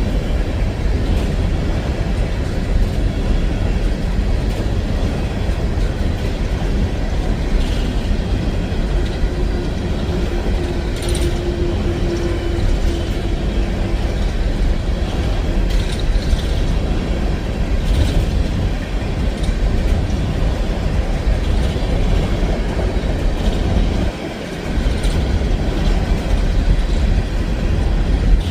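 Empty CSX coal train rolling past: a steady, loud low rumble from the cars, with scattered clicks of the wheels over the rail joints.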